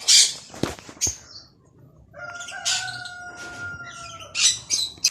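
Caged farm birds squawking and chirping in harsh high bursts at the start and again near the end, with a steady whistling tone held for about two seconds in the middle.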